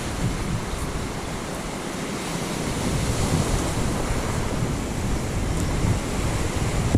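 Surf washing and wind gusting over the microphone: a steady rushing noise with an uneven low rumble.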